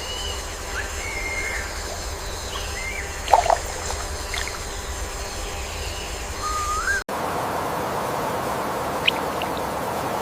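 Wild birds calling over outdoor ambience: short whistled notes, a louder sharp call about three seconds in and a rising whistle near seven seconds. Then the background changes suddenly to a steady hiss with a single brief chirp.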